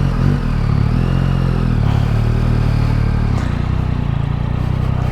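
Yamaha MT-09 SP's CP3 inline three-cylinder engine running at low revs, its pitch rising and falling a little.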